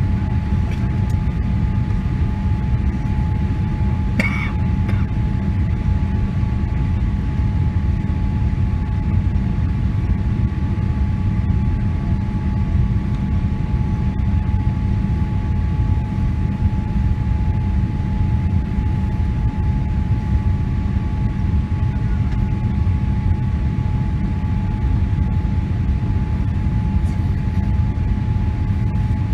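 Steady in-cabin drone of a Boeing 777-300 airliner in flight on its landing approach: a deep rumble of engines and airflow with a constant whine on top. A brief click about four seconds in.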